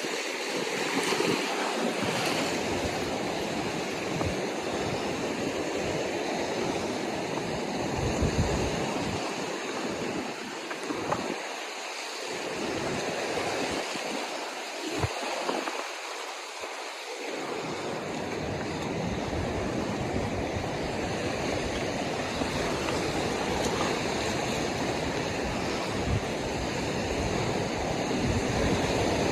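Ocean surf washing steadily onto the shore, with wind gusting on the microphone in a low rumble that comes and goes.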